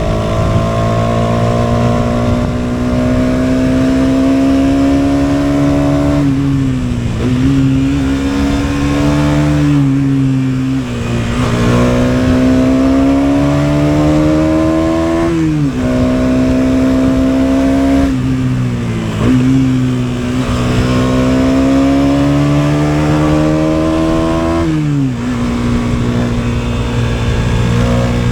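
KTM Duke 250's single-cylinder four-stroke engine under way, its pitch climbing slowly under throttle and dropping sharply at each gear change or lift-off, about five times.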